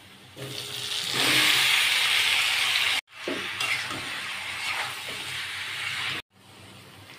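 Marinated chicken and potato pieces tipped into hot oil and onions in a kadai, sizzling loudly about a second in, then sizzling more quietly as they are stirred with a metal spatula.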